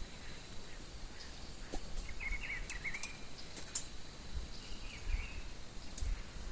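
A songbird singing two short warbling phrases, about two seconds in and again about five seconds in, over a steady thin high-pitched drone and a low rumble.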